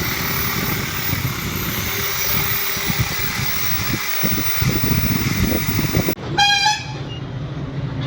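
Busy street traffic noise with scattered knocks, then a short vehicle horn toot about six seconds in.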